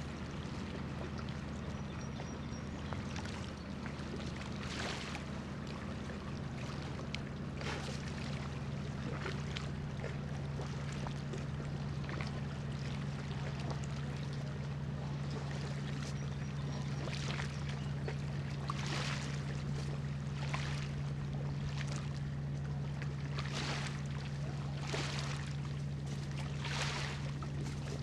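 Steady low drone of an anchored cargo ship's engines carrying across the water, a little stronger in the second half, with small waves splashing irregularly every second or two.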